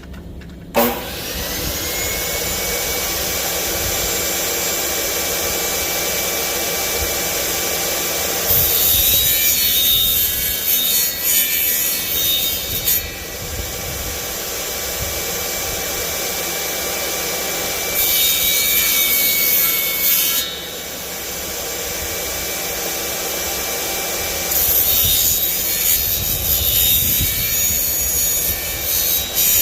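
Electric power saw switched on about a second in, its motor whine rising and settling, then running steadily. It cuts through wood three times, each cut several seconds long and louder and harsher than the free running.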